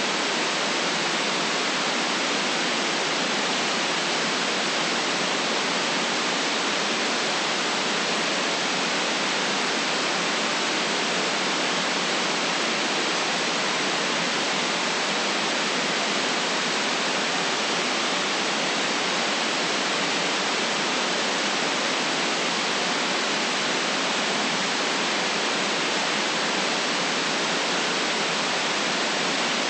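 Steady synthetic white noise, an even unbroken hiss with no low rumble beneath it.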